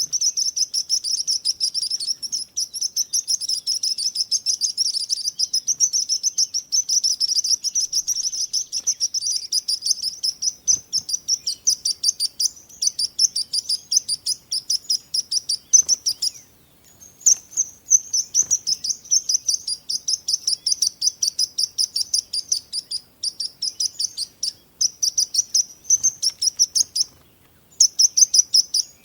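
Birds chirping: a fast, steady run of short, high chirps, several a second, broken by two brief pauses.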